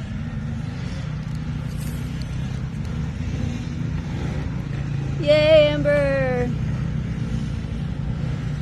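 Dirt bike engine running steadily. About five seconds in, a person lets out a high-pitched two-part whoop that falls slightly in pitch.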